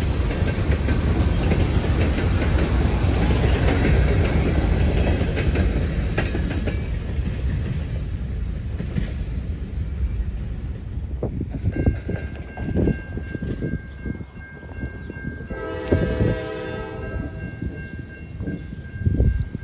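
CSX freight train's covered hopper cars rumbling and clacking past, fading away. About twelve seconds in, grade-crossing bells start ringing steadily, and near the end a distant approaching Norfolk Southern locomotive sounds its horn once for about a second and a half, with wind thumping on the microphone.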